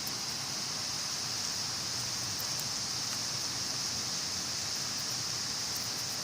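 Steady rain falling, an even hiss with a few faint sharp drop ticks.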